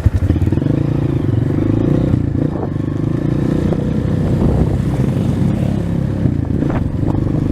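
230 trail motorcycle's single-cylinder engine running at a steady, moderate speed while riding, with some clatter over it.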